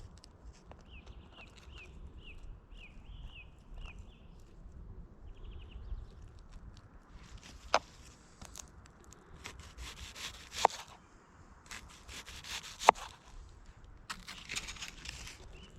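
Rough rasping scrapes in several strokes, with three sharp knocks in the second half, typical of wood being worked by hand.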